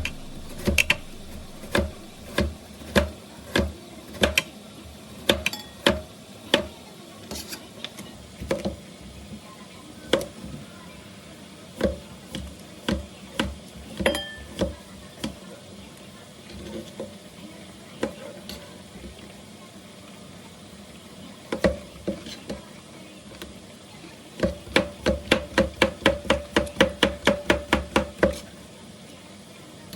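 Kitchen knife chopping on a cutting board, in irregular single strokes and then a fast even run of about four or five chops a second near the end.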